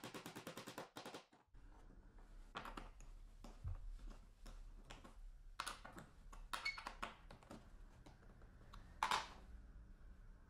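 A fast run of clicks, about ten a second for just over a second, then scattered taps and knocks of hard objects, the loudest about nine seconds in.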